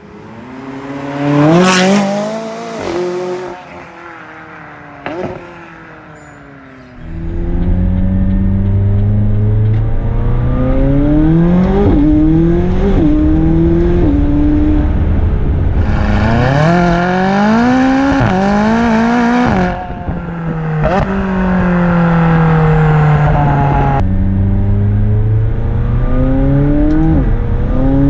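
McLaren 570GT's twin-turbo V8 breathing through large sport downpipes and the factory sport exhaust. It first revs hard as the car goes past, the pitch rising then falling. From about seven seconds in it is heard inside the cabin, pulling hard through the gears: the pitch climbs and drops at each upshift, is loudest and brightest at high revs around the middle, eases off, then climbs again near the end.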